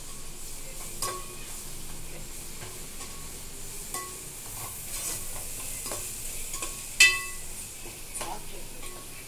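Onions and ginger-garlic paste sizzling as they fry in a steel kadai, stirred with a steel spoon that scrapes and clinks against the pan now and then; the paste is being fried until its raw smell is gone. The loudest sound is a single sharp, ringing clink of spoon on pan about seven seconds in.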